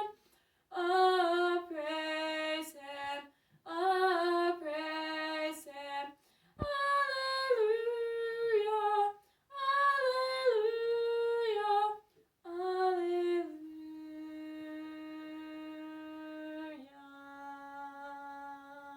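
A woman singing unaccompanied in short phrases with brief pauses between them, ending on two long held notes.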